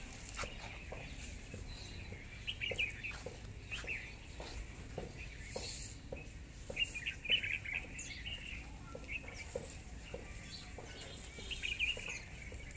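Birds chirping in short, repeated bursts of twittering, busiest about a third of the way in and again near the end, over faint scattered ticks from dry twigs being picked through.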